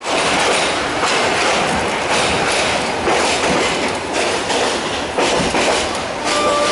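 Yangon Circular Railway train running along the track, heard from on board: a steady rumble and rattle with the clickety-clack of the wheels over the rail joints, and a brief steady tone near the end.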